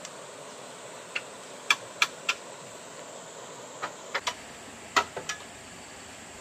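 About ten sharp clicks or knocks in irregular clusters of two or three, over a steady background hiss.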